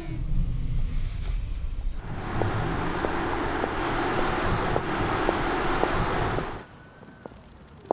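Audi R8 e-tron electric sports car driving: a low rumble, then from about two seconds in a steady rush of tyre and wind noise, which cuts off suddenly near the end.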